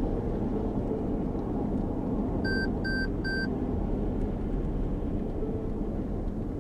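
Steady road and engine noise inside a moving car, with three short electronic beeps in quick succession about halfway through.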